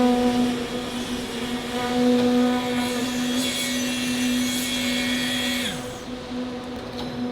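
Factory machinery running with a steady, pitched motor hum. About six seconds in the hissing upper part stops and one tone drops in pitch, as if one machine winds down while the hum carries on.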